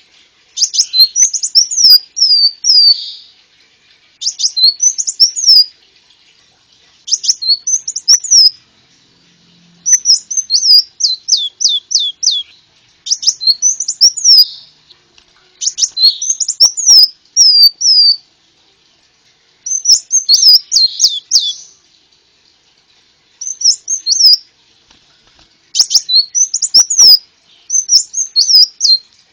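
Konin sunbird song, as used for bird luring: about ten loud phrases of quick, high, sweeping chirps and trills, each lasting one to two and a half seconds, separated by short pauses.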